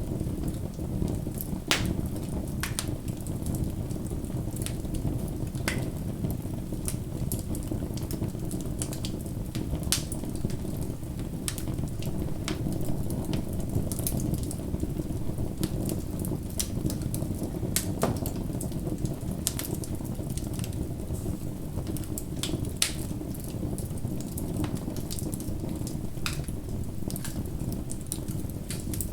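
Wood bonfire burning: a steady low rush of flames with frequent, irregular sharp crackles and pops.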